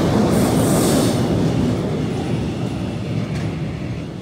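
Freight train wagons rolling past at speed, wheels rumbling and clattering on the rails, with a brief high hiss in the first second. The noise then fades steadily as the end of the train moves away.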